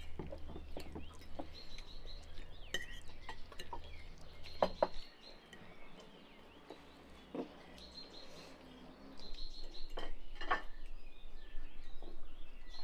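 Cutlery clinking against plates and glasses at a table meal, with small birds chirping in repeated short high phrases in the background. The clinks and chirps thin out to a quieter stretch in the middle and pick up again near the end.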